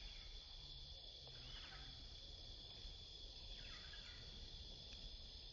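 Faint park ambience: a steady, high-pitched insect drone, with two short calls falling in pitch about a second and a half and three and a half seconds in, over a low rumble.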